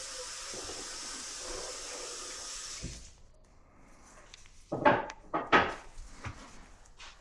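A steady hiss that cuts off about three seconds in, followed by a few loud knocks and clatters of hard objects being handled.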